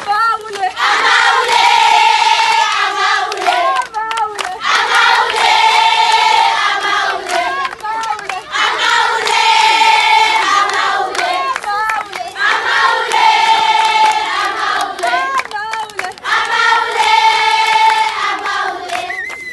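A group of girls singing together in unison with hand clapping, a short phrase repeated about every four seconds, as at a campfire sing-along.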